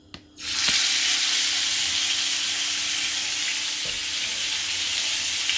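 Skewered chicken breast pieces sizzling in hot oil in a frying pan; the sizzle starts suddenly about half a second in as the meat goes into the pan, then holds steady.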